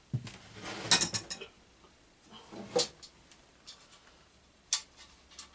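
Short clicks and metallic clinks of tools and parts being handled: a rapid cluster of clicks about a second in, another clatter near three seconds, and a sharp single click near the end.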